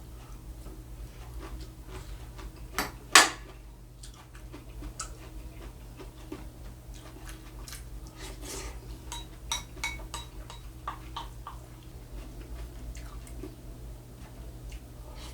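A spoon clinking and scraping against a bowl during eating, with scattered small clicks and one sharp, loud clink about three seconds in, over a steady low hum.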